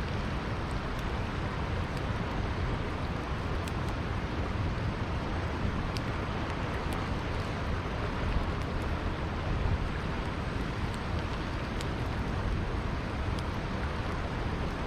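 Campfire crackling, with sharp pops every second or two, over the steady low rush of a flowing river.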